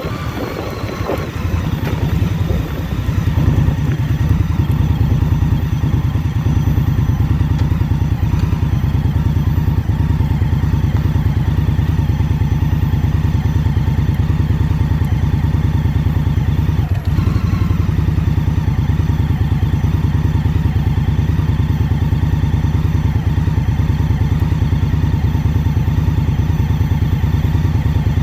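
2021 Indian Scout Bobber Twenty's V-twin engine running steadily at an even low pitch. Wind noise on the microphone dies away in the first few seconds, leaving the engine on its own.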